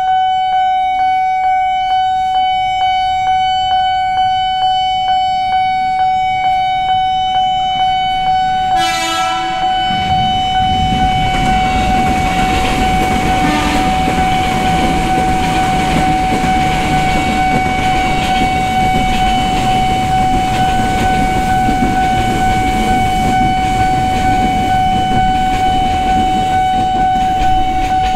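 Level-crossing warning bell ringing over and over in a steady tone, with a short train horn blast about nine seconds in. Just after, a KRL electric commuter train runs past with a loud rumble of wheels on rail, and the crossing bell keeps ringing over it.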